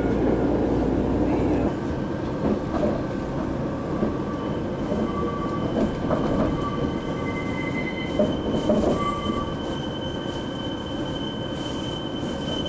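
Electric train running along the track, heard from inside the carriage: a steady rumble of wheels on rail with a few clacks, and a thin high wheel squeal with short squeaks on curves from a few seconds in. A low hum under the rumble drops away about two seconds in.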